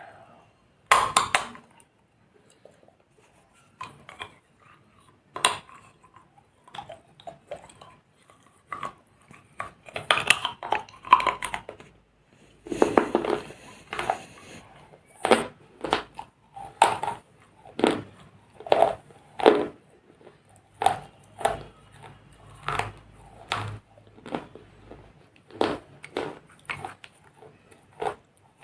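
Small dry clay pots being crunched and broken apart: a run of sharp, gritty crunches and cracks, sparse at first and then coming one or two a second.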